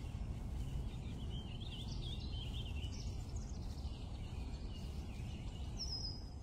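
Outdoor ambience: a steady low rumble with small birds chirping, a run of chirps about one to three seconds in and a short high call near the end.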